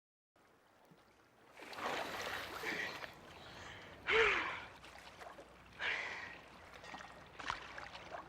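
A person gasping and breathing hard, four or five loud breaths, one with a short falling voiced catch about four seconds in.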